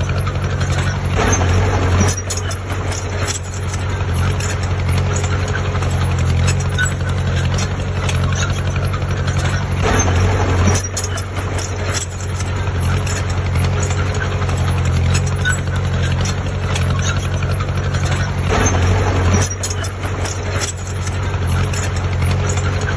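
Heavy diesel engine of construction machinery running steadily, briefly louder every eight or nine seconds, with scattered metallic clicks.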